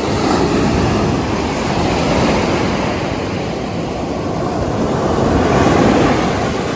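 Ocean surf washing onto the beach, a steady rush that swells and eases as waves come in, with wind buffeting the microphone.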